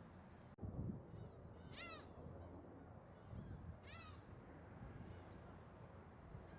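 Birds calling over a low steady background: short harsh calls that arch downward in pitch, the two loudest about two seconds apart, with fainter calls between.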